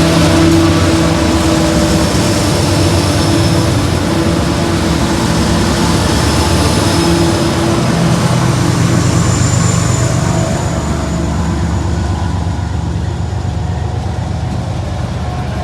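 Six diesel locomotives working together at the head of a train, their engines giving a loud, steady drone that slowly fades after about ten seconds as they pass.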